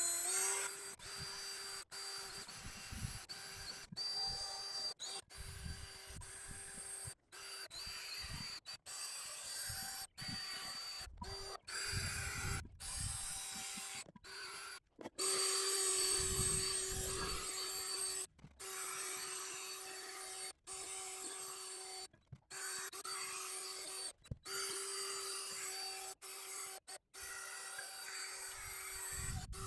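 Power drill spinning a small abrasive flap wheel against an aluminum truck wheel, sanding off the oxidized finish and brake-dust staining. A steady motor whine with a rubbing, grinding noise, broken again and again by sudden short gaps.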